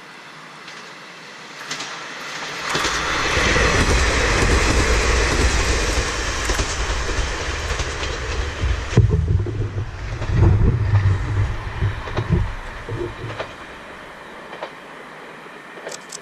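Kanto Railway diesel railcar passing close by. A rush of engine and wheel noise builds over a few seconds. From about nine seconds in come deep thumps of the wheels over rail joints, which then fade away.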